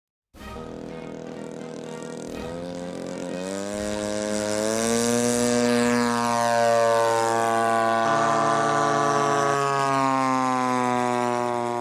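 Engine and propeller of a large-scale RC Spitfire model running at high power in flight. Its note rises steadily for a few seconds starting about two seconds in, then holds at a high, steady pitch.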